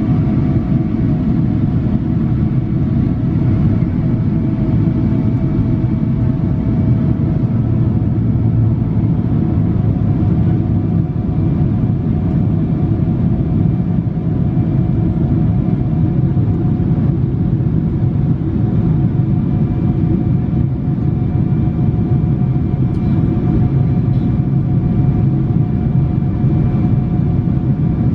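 Steady cabin noise of a Boeing 777-300 in flight, heard from inside the cabin: the deep rumble of its Rolls-Royce Trent 800 engines and rushing air, with a few faint steady whining tones above it.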